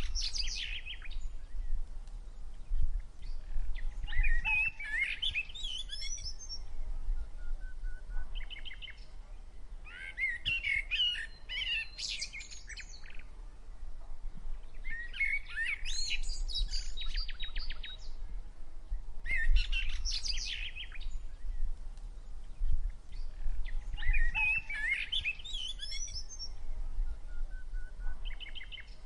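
A songbird singing phrases of quick, varied high chirps, each a couple of seconds long and repeating every four to five seconds, over a low rumble.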